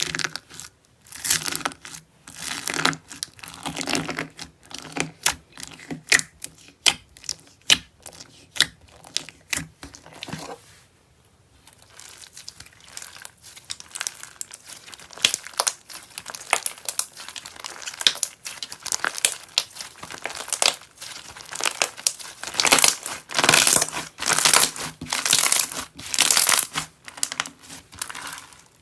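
Dense crinkling and crackling: many small sharp cracks in quick irregular succession. They pause briefly about eleven seconds in, then come back thicker.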